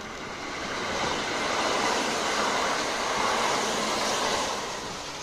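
Kintetsu limited express electric train passing close by: its wheel and running noise swells over the first second or two, stays loud through the middle, then fades near the end.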